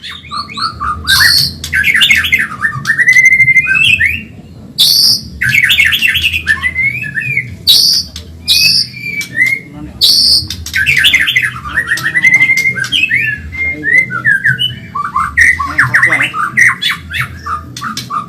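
White-rumped shama (murai batu, Medan type) singing a fast, continuous song of rapid trills, gliding whistled phrases and sharp high notes with only brief pauses.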